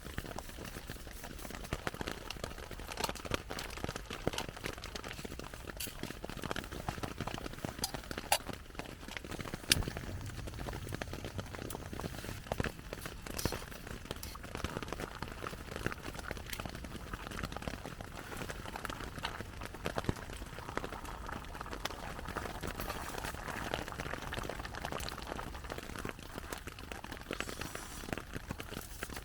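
Steady patter of rain on a tarp overhead, with scattered sharp drips and clicks, mixed with a pot of motsu stew simmering on the stove.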